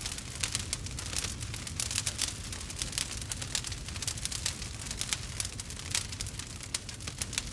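Log fire in a fireplace crackling: many irregular sharp pops and snaps over a low, steady rumble.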